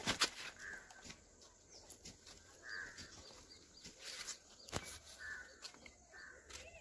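Quiet rural outdoor background with a few short, faint bird calls and a couple of sharp clicks.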